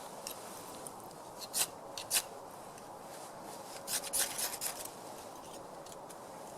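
Short, sharp scraping strokes: two single strokes about half a second apart, then a quick run of about five strokes, over a faint steady hiss.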